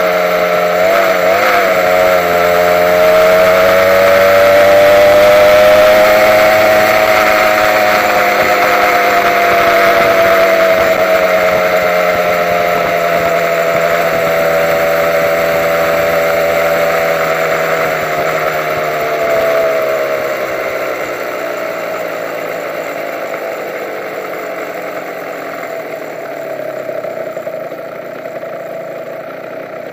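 Honda NSR150's two-stroke single-cylinder engine running under way, its pitch rising and falling slowly with engine speed. After about twenty seconds the pitch drops and the sound grows quieter as the bike slows.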